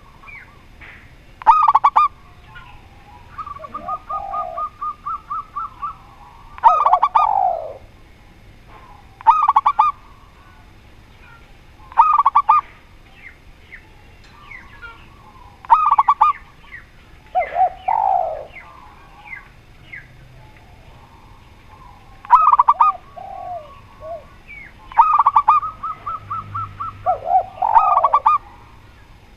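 Spotted dove and zebra dove cooing. Loud coos come every two to three seconds, and twice there is a longer run of fast, even notes.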